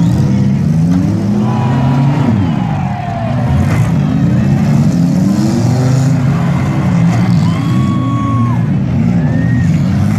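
Several demolition derby cars' engines revving at once, their pitch rising and falling over and over as they drive around the dirt arena.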